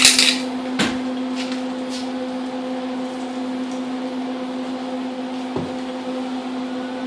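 Welder humming steadily, with a few short crackling bursts in the first two seconds as the weld on the turbo flange's last holes is finished.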